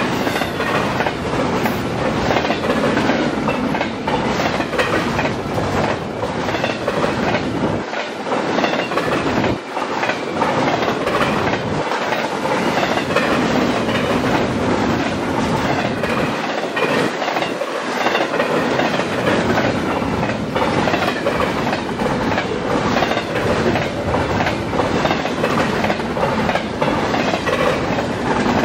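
Double-stack intermodal container train passing close at speed: the loaded well cars give a steady, loud rumble with a constant clickety-clack of wheels over the rail joints.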